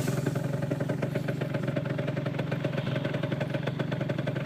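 Yamaha Zuma 49cc scooter engine running at a steady speed, an even buzzing hum with no change in pitch.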